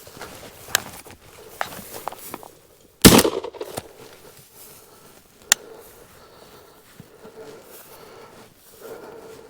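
A single shotgun blast about three seconds in, fired at a flushing rooster pheasant, with a short echoing tail. A sharp click follows a couple of seconds later, and faint steps and crackling in the cover come before the shot.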